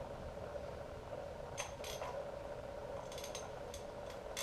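Scattered sharp metal clicks and clinks of hand tools and engine parts, a few single ones and a quick cluster of three or four, over a steady background hum.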